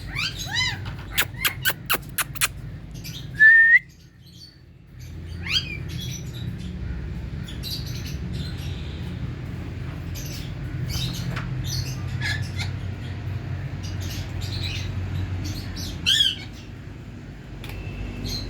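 Pet parakeets (ringneck and Alexandrine) squawking and chirping. A quick run of short, sharp calls comes about a second in, then a loud call, followed by scattered chirps and one more squawk near the end over a steady low hum.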